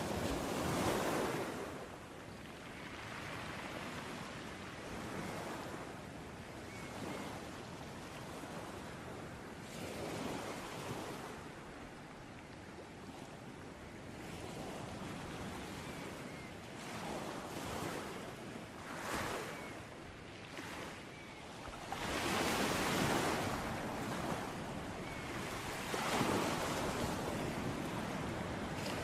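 Sea waves washing onto a shore in repeated surges, one loud near the start, then smaller swells, and bigger breakers coming in over the last several seconds.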